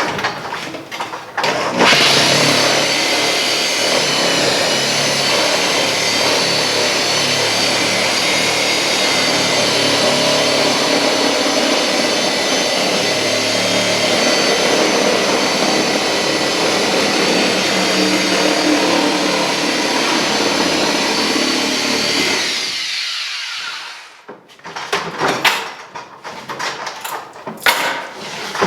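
Power tool's electric motor running steadily at speed with a high whine for about twenty seconds, then winding down in pitch to a stop. Short clicks and knocks come before it starts and after it stops.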